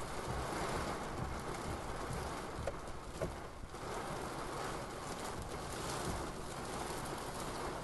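Rain falling steadily, with a couple of faint short bird calls about three seconds in.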